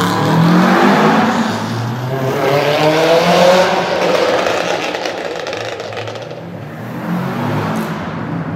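A car engine accelerating hard, its pitch climbing over the first three or four seconds, then a rougher engine and exhaust noise that eases off and builds again near the end.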